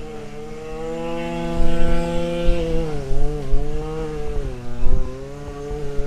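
Gas string trimmer (weed whacker) engine running at high speed, steady at first, then its pitch wavering up and down from about three seconds in as it works.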